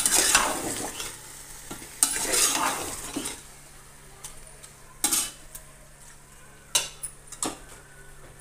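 Metal spoon stirring mutton, tomatoes and ginger-garlic paste frying in hot oil in a metal pot, the mix sizzling loudly with the first two sweeps of the spoon. Later the sizzle settles to a quieter hiss, with a few sharp clinks of the spoon against the pot.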